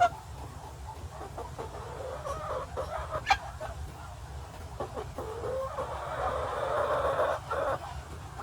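Farmyard poultry clucking and calling, with a few sharp clicks and a louder stretch of calling in the second half.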